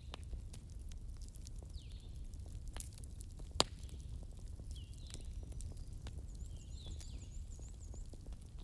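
Wood bonfire crackling with frequent sharp pops, one much louder pop about three and a half seconds in, over a low steady rumble. Birds call in the background: a short chirp repeated every second or two, and a quick high trill near the end.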